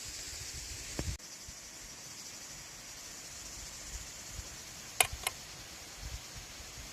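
A steady high hiss that drops sharply a little after a second in, with two sharp clicks close together about five seconds in.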